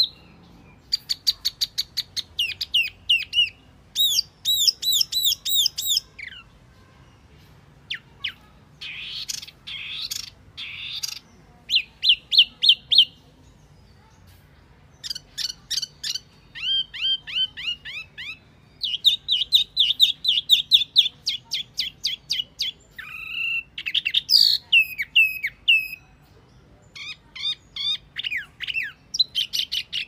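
Wambi mini bird song from a lure recording: phrases of fast, repeated high whistled notes, each sliding up and down in pitch, separated by pauses of a second or two.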